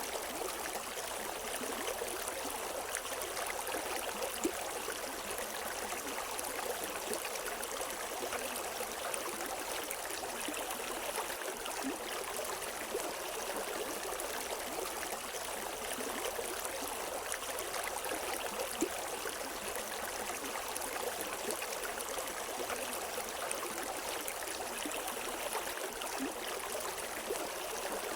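River water running over stones: a steady rushing and gurgling, with small splashes now and then.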